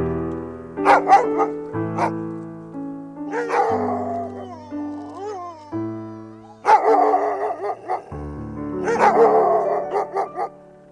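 A dog barking and yipping in several short bouts, some calls gliding up and down in pitch like whines, over background piano music.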